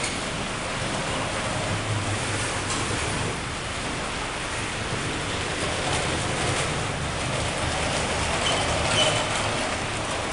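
A train running along the track: a steady rumble with faint clicks, and a short high squeal near the end.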